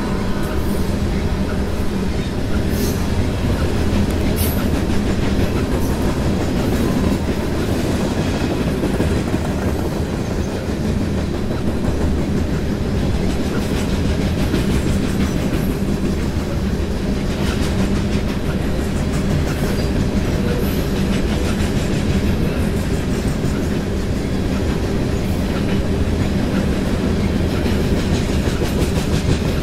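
Covered hopper cars of a CSX freight train rolling past at speed: a steady, loud rumble of steel wheels on the rails with a repeating clickety-clack of the wheels over the track.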